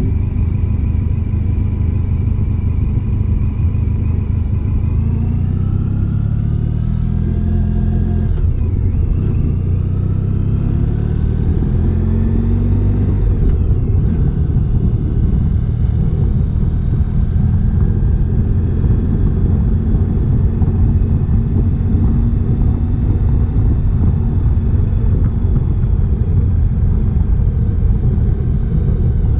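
1994 Honda ST1100 motorcycle's V4 engine under way. The engine pitch rises through a gear and drops at a shift about eight seconds in, rises again and drops at another shift about fourteen seconds in, then holds steady at cruise. A steady low rumble runs underneath.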